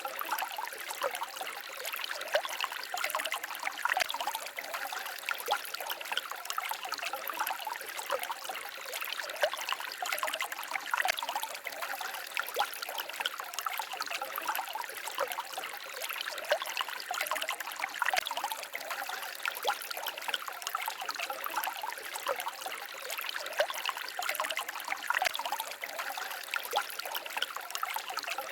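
Small forest stream trickling and babbling over stones, a continuous splashing with many small bright droplet sounds and little low rumble.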